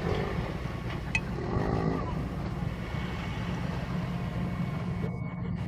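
A boat's engine running steadily, with a couple of brief faint voices in the first two seconds.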